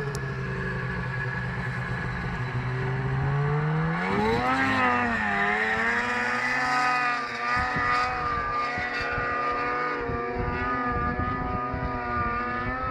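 Ski-Doo Summit snowmobile's two-stroke engine running at a steady speed, then revving up about four seconds in, wavering in pitch, and holding a higher, steady speed as the sled pulls.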